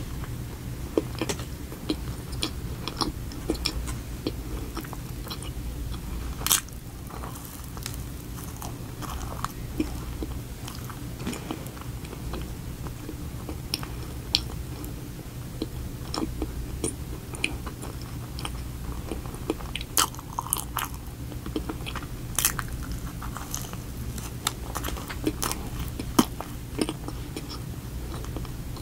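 Close-up biting and chewing of a cream-filled Oreo cookie donut: soft, moist chewing broken by many sharp crunchy clicks from the cookie layer, with a few louder crunches spread through. A steady low hum runs underneath.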